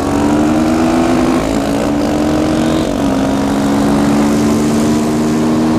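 Single-cylinder four-stroke dirt bike engine running at a steady cruising speed, its pitch stepping down slightly about a second and a half in and again near three seconds.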